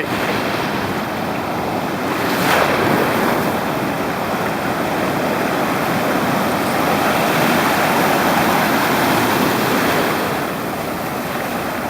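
Pacific Ocean surf washing onto the beach, with a wave breaking about two and a half seconds in and the wash rising again later.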